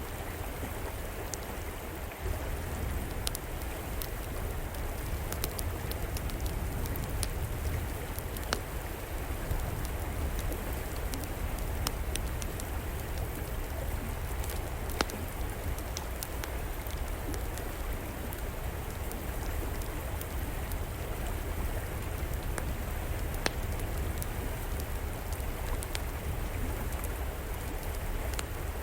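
A river flowing steadily, with scattered sharp crackles and pops from a fire in an outdoor fireplace.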